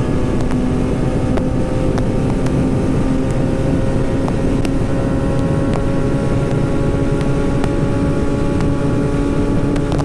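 2008 Yamaha YZF-R6 inline-four engine running steadily under way, its pitch creeping slowly upward as it gathers speed, with wind rushing over the microphone.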